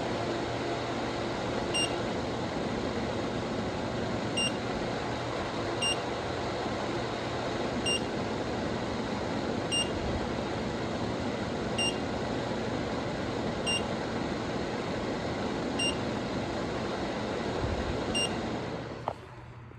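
Reversible LED exhaust fan running with a steady rush of air and a low hum, with a short electronic beep about every two seconds. The fan shuts off near the end and the rushing drops away.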